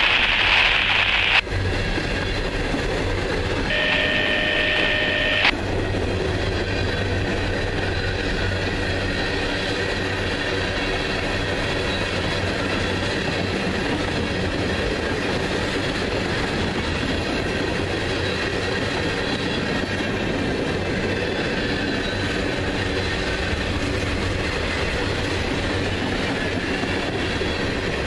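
Freight cars of a CSX manifest train rolling past, a steady rumble and clatter of steel wheels on the rails. A brief high tone sounds and cuts off abruptly about five seconds in.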